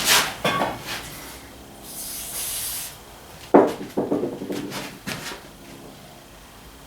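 A short hiss of aerosol spray lubricant about two seconds in, then a loud knock and a run of smaller clicks and knocks as the rubber spark plug boot is worked back onto the mower's spark plug.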